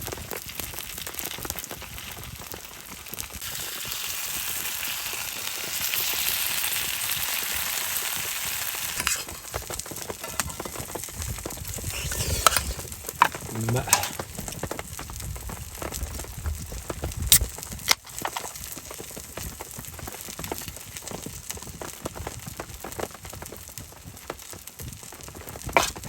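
Food sizzling as it fries in a pan. The hiss swells a few seconds in, and a few sharp clicks and knocks follow later.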